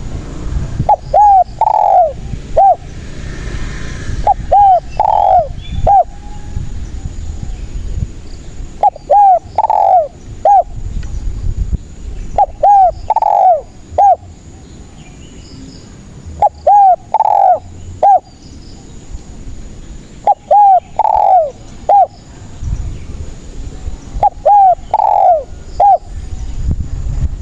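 Spotted dove (tekukur) cooing: about seven short phrases of three to four soft coo notes each, repeated every three to four seconds.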